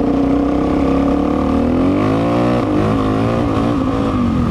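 Suzuki DR-Z400's single-cylinder four-stroke engine running while the bike is ridden. The engine pitch rises and wavers about two seconds in, then settles back to a steady note.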